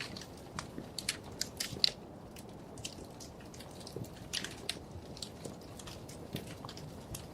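Wood fire crackling in a fireplace: irregular sharp snaps and pops over a low steady hiss, with one louder pop just before two seconds in.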